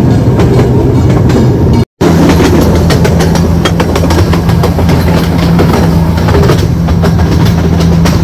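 Train running along rails: a steady low hum with rapid clicking of the wheels, cut by a brief dropout about two seconds in.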